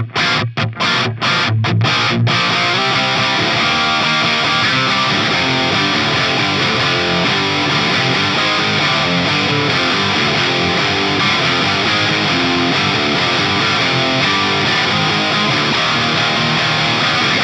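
Electric guitar played through a Soldano SLO-100 clone tube amp with heavy distortion: a few short staccato chugs with sharp stops in the first two seconds, then continuous riffing.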